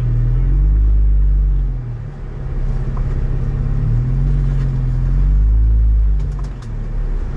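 Jeep Wrangler JL engine running at low revs while crawling over rocks, the revs rising and easing off several times as the throttle is fed in and let off.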